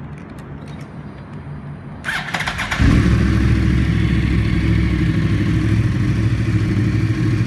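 2009 Yamaha R1's crossplane inline-four being started. About two seconds in, the starter cranks briefly. The engine catches under a second later and settles into a steady, loud idle through a Two Brothers carbon full-system exhaust.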